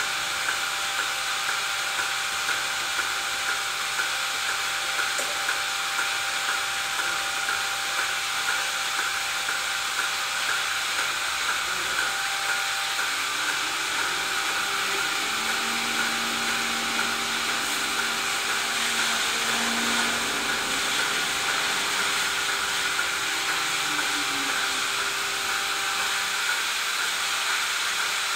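Steady mechanical whirring and hiss from dairy-barn machinery, with a few faint pitched tones rising out of it in the middle.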